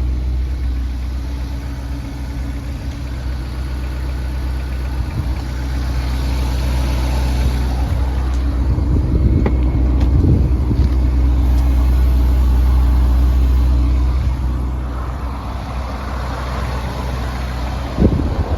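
Ferrari Portofino's twin-turbo V8 running with a steady low rumble that swells for several seconds in the middle and eases again, with a brief thump near the end.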